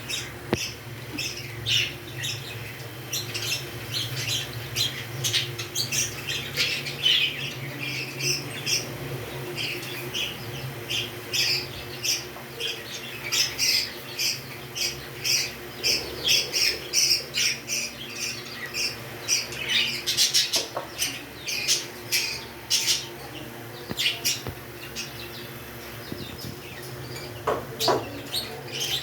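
Pet parrots chirping and squawking in a steady stream of short, high calls, over a faint steady low hum.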